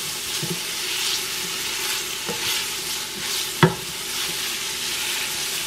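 Sliced onions and minced garlic sizzling in oil in the stainless steel inner pot of an Instant Pot on sauté, stirred with a wooden spoon. The spoon scrapes the bottom and knocks against the pot a few times, loudest about three and a half seconds in.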